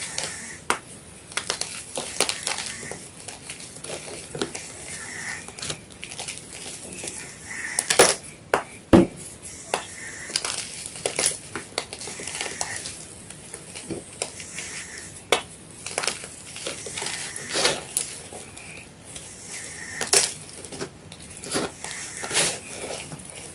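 Blocks of white gym chalk being crunched and crushed, giving irregular dry crackles and crunches. A few sharp, louder snaps come about eight and nine seconds in.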